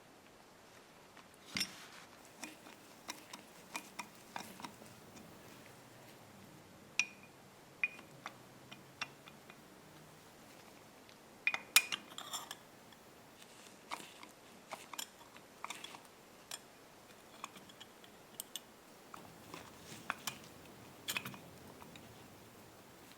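Metal parts of a Stanley hand plane being handled: scattered, irregular clicks and clinks, some with a short metallic ring, with a cluster of louder ones about twelve seconds in.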